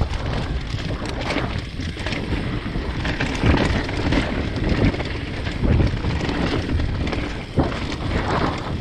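A mountain bike riding fast over a rough dirt trail: wind buffeting the microphone, with the bike rattling and knocking sharply over bumps several times.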